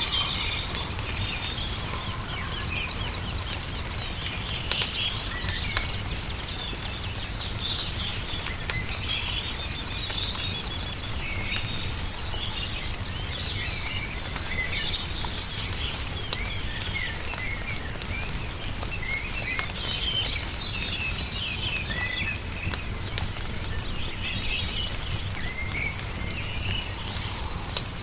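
Small songbirds chirping in short scattered phrases over the crackle and pops of a wood fire, with a steady low rumble underneath.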